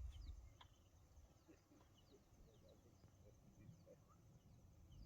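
Near silence, with faint scattered bird chirps in the background: many short, downward-sliding calls.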